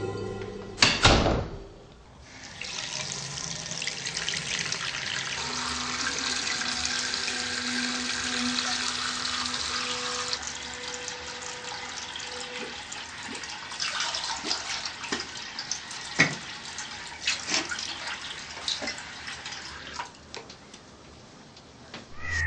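Bathroom tap running into a sink, with an electric toothbrush humming for several seconds in the middle and scattered splashes and taps later on. A single sharp knock comes about a second in, before the water starts.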